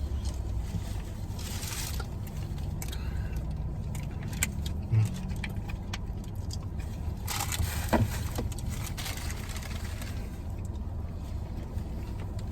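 Steady low rumble inside a car cabin while people eat, with brief rustles, light clicks and two soft thumps about five and eight seconds in.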